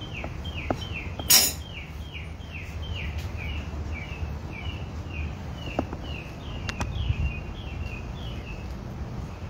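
A bird chirps over and over, a short falling note about two to three times a second, over a steady low rumble. A single sharp metal clank about a second and a half in is the loudest sound.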